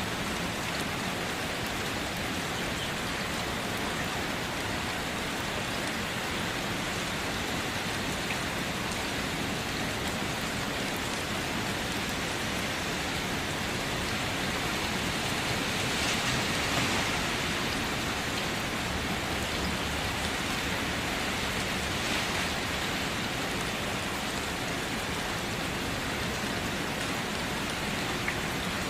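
Steady rain falling and pattering on a surface, a little heavier around the middle.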